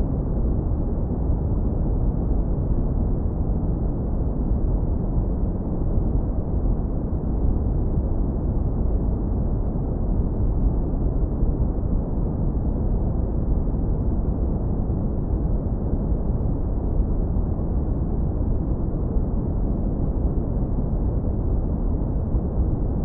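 Continuous deep brown noise, heavily low-pass filtered so that only a warm, smooth low rumble remains. It is steady throughout, with no changes or events.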